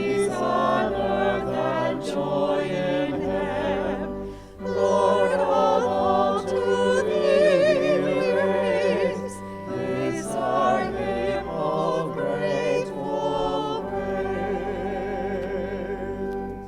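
Choir singing a hymn with vibrato over held accompaniment chords, with a short break between phrases about four and a half seconds in.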